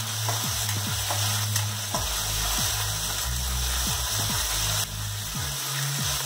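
Whole spices and ginger-garlic paste sizzling steadily in hot oil and ghee in a steel kadai. A spatula stirs and scrapes the pan with occasional light clicks.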